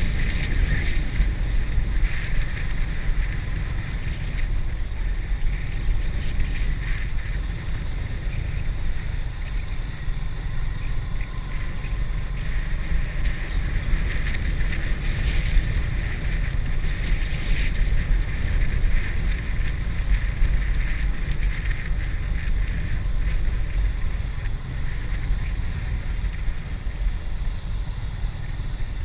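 Steady wind rumble on the microphone of a moving motorbike, with road and engine noise underneath.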